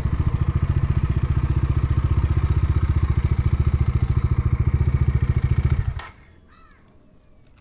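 Bajaj Dominar 400's single-cylinder engine running at a steady idle with an even, quick pulsing exhaust beat, then switched off abruptly about six seconds in. A crow caws faintly after the engine stops.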